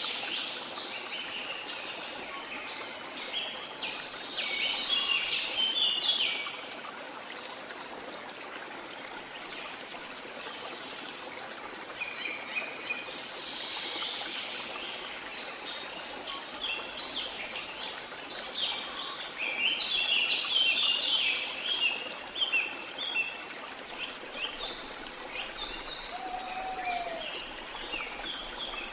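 Birds singing over the steady rush of a waterfall. The birdsong comes in two busy spells of quick, high chirps, a few seconds in and again in the middle, with the water running on evenly beneath.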